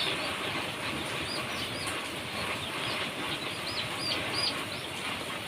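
A brood of day-old gamefowl chicks peeping: many short, high chirps overlapping at an uneven rate, over a steady hiss.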